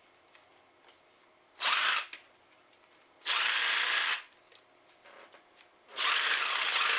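Ryobi 18V cordless jigsaw run three times in short trigger pulls, the last one longest, each starting and stopping abruptly. The tool works, on a battery revived by recharging.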